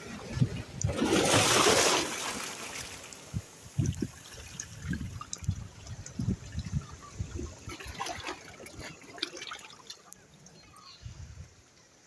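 Seawater splashing. A loud rush about a second in is followed by lapping and trickling, with scattered low knocks.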